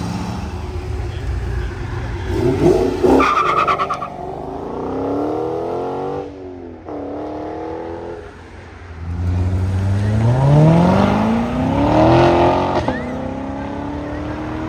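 Muscle car engines accelerating away under hard throttle, their pitch climbing as they rev. In the second half one car revs up steadily, shifts gear and keeps pulling at a higher pitch.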